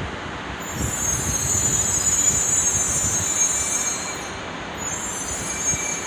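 Shinkansen high-speed train passing through a station without stopping: a dense rush of air and wheel noise with a high hiss, swelling to its loudest a couple of seconds in and then easing off.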